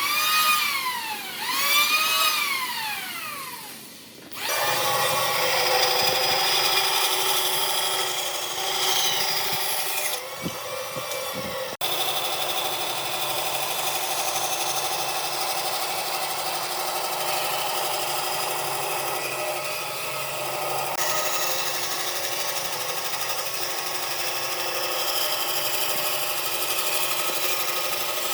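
Power tool working wood: its motor twice speeds up and winds down, then runs steadily under load against the wood for the rest of the time.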